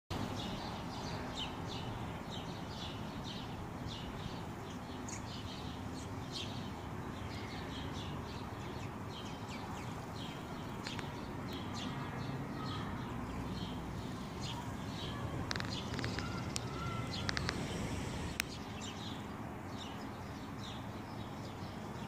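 Small birds chirping many times over, short high chirps in quick succession, over a steady low background noise.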